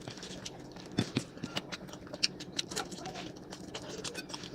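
Close-miked eating sounds: irregular wet mouth clicks and smacks of someone chewing food, a couple of sharper ones about a second in.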